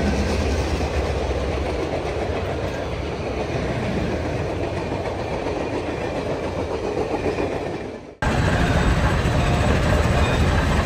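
Railroad train rolling by with a steady rumble. It drops out abruptly about eight seconds in, then a similar train rumble starts again.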